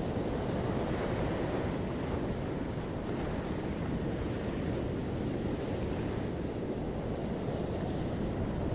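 Ocean surf: a steady wash of breaking waves, deep and rumbling, rising and easing slightly without distinct crashes.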